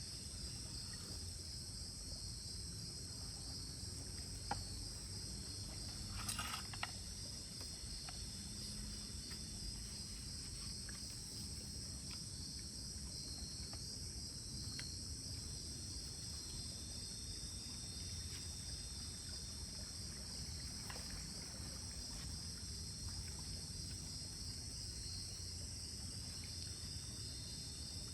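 Steady chorus of crickets and other insects with a fast, even pulse, over a low background hum of the forest; a couple of faint knocks come about four and a half and six and a half seconds in.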